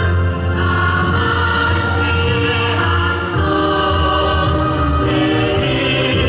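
A choir singing held, sustained notes over an instrumental accompaniment with a steady deep bass.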